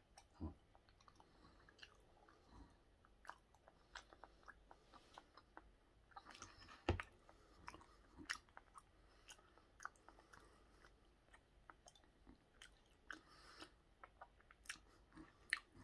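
Faint, close chewing of raw tuna belly sashimi: soft wet mouth smacks and small clicks at an irregular pace, with one sharper knock about seven seconds in.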